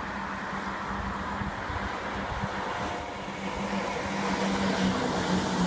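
A train passing: a steady rumbling noise that grows a little louder in the second half, with a low steady hum joining about two seconds in.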